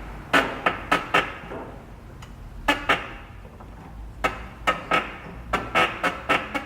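Hyundai i30 suspension clunking at the subframe bushings, a series of sharp knocks with a short metallic ring, coming in three groups and fastest near the end; the mechanic puts the noise down to worn subframe bushings.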